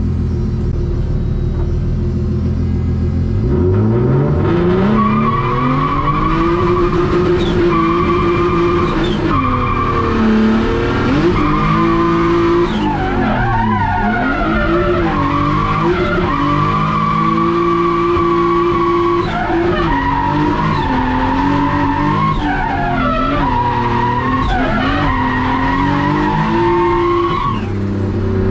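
Turbocharged BMW M50B20 inline-six in a drifting Nissan 180SX, heard from inside the car: it climbs to high revs about three seconds in, then is held high and steady for stretches, dropping and climbing again several times. Tyres squeal and skid through the slides.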